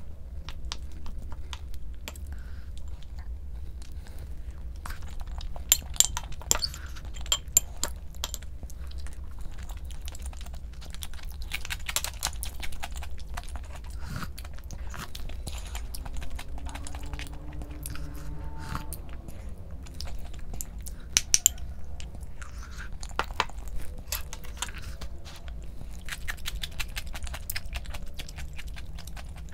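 A person eating close to the microphone: chewing and biting, with crunchy crackles and many short wet clicks.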